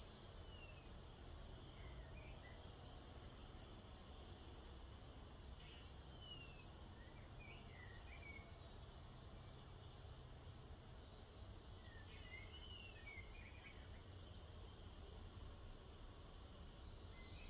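Faint background birdsong: small birds giving quick repeated high chirps and occasional falling, wavering calls, busiest about ten seconds in, over a low steady background hum.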